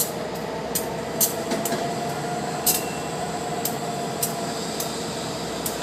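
Locomotive standing and running after coupling onto rail cars: a steady hum with a faint held tone through it. About eight sharp clicks are scattered through it at uneven intervals.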